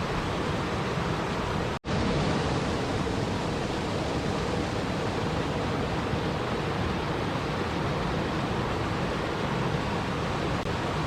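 Steady, even rushing of water. A split-second dropout about two seconds in cuts it out and it comes straight back.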